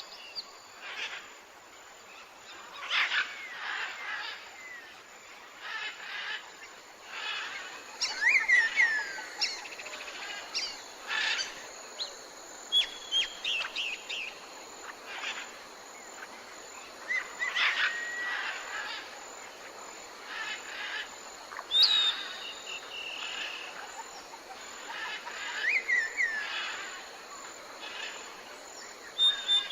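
Wild birds singing and calling: short chirps and quick falling whistles every second or two, over a steady faint hiss of outdoor ambience.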